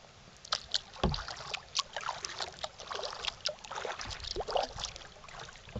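Kayak paddling: irregular splashes and drips of water from the paddle, with a dull knock about a second in.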